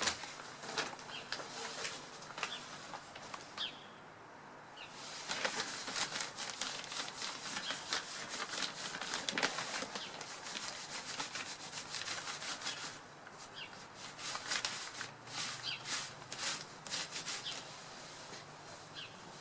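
Birds moving about in a tree: rustling and wing-flapping among twigs and leaves, with a few short high chirps.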